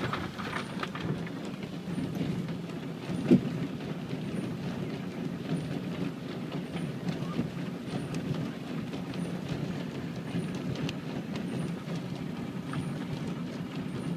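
Autec automatic car wash machine running over the car, heard from inside the cabin: a steady mechanical rumble with one sharp knock about three seconds in and a faint high tick repeating about every three-quarters of a second.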